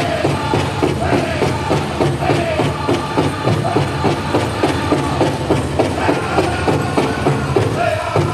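Powwow drum group playing a chicken dance song: a big drum struck in a fast, steady beat, with the singers' high voices rising and falling over it.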